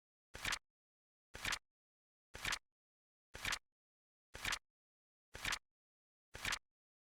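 Flip-clock timer sound effect: a short click of a flipping card, once a second and evenly spaced, with silence between the clicks.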